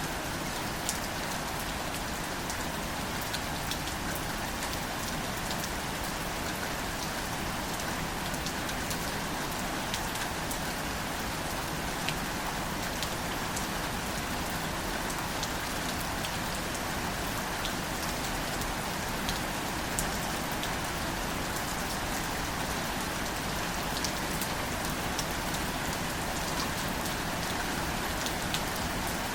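Steady, gentle rain falling on greater celandine wildflowers and their leaves: a continuous hiss with scattered sharp taps of single drops.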